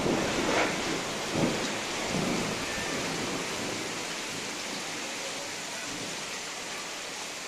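Heavy rain in a severe pre-monsoon thunderstorm. Low rumbles of thunder come in the first two seconds or so, then a steady rush of rain that slowly eases.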